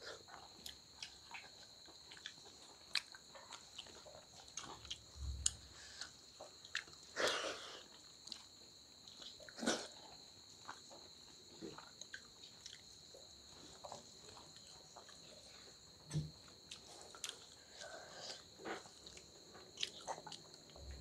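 Close-up mouth sounds of people eating rice and dal by hand: irregular chewing and lip smacks, with a couple of louder smacks partway through.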